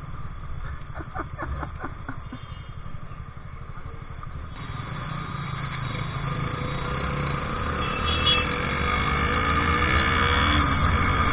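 Motorcycle and scooter engines running in city traffic, heard from the rider's scooter over a steady rumble of wind on the microphone. In the second half the engines rev up and the sound grows steadily louder as the bikes pull away.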